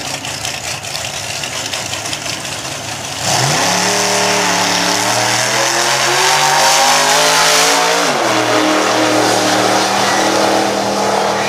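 Turbocharged Fox-body Ford Mustang running at the drag-strip start line, then launching hard about three seconds in. The engine climbs in pitch under full throttle with a high whine on top, and about eight seconds in the pitch drops and holds steadier as the car pulls away.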